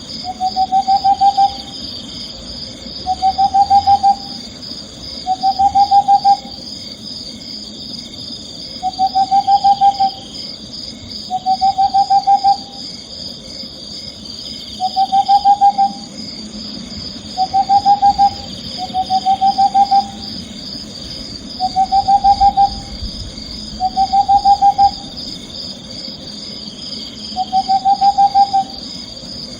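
Owl calling with short trilled hoots, each a quick run of pulses about a second long, repeated every two seconds or so over a steady high-pitched background drone.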